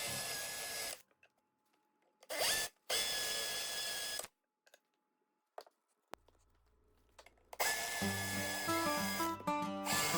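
Power drill running in four short bursts, each with a steady high whine. Background music with a melody comes in near the end.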